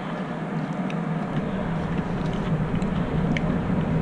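Steady low mechanical hum with a deep rumble that grows from about halfway through, like a running vehicle engine. Scattered light clicks of chewing and eating sit over it.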